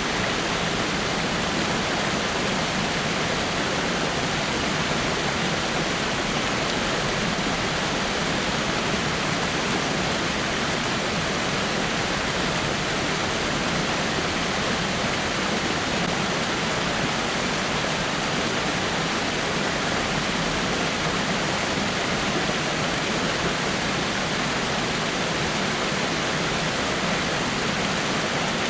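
Water falling over a rock waterfall: a steady, even rush of splashing water that does not change.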